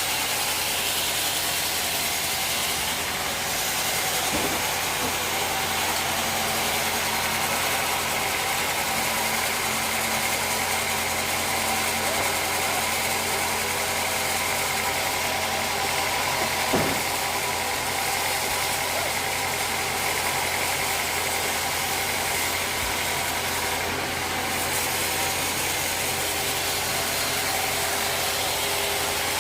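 Sawmill machinery running steadily, a motor hum with a constant mechanical noise and two single knocks, about four seconds in and again near seventeen seconds.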